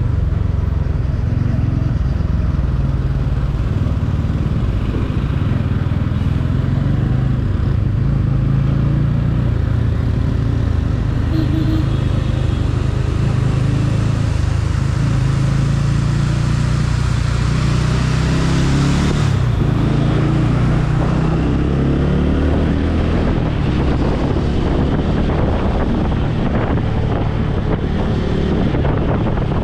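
Motorcycle engine running while riding, its pitch changing about two-thirds of the way through, with wind buffeting the microphone more strongly toward the end.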